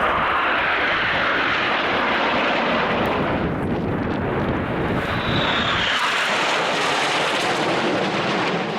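Loud aircraft engine noise as a display aircraft flies past, its pitch falling over the first few seconds as it goes by.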